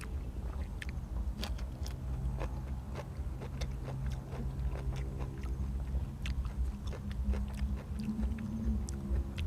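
Close-up eating sounds: biting and chewing food, with many scattered wet mouth clicks, over a steady low hum.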